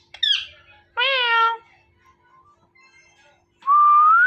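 Indian ringneck parrot mimicking a cat: a short high falling call, then a meow-like 'myaaw' about a second in. Near the end comes a short whistle rising in pitch.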